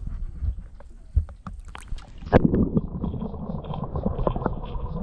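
Handheld camera being lowered over the boat's side into the water, with handling knocks and clicks. About two seconds in, the microphone goes under and the sound turns abruptly into a dense, muffled underwater crackle and gurgle with a faint repeating high tick.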